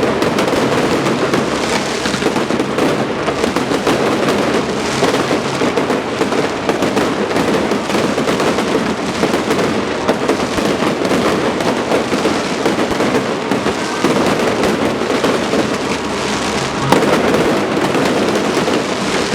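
Aerial fireworks going off in a dense, continuous barrage of bangs and crackling with no let-up.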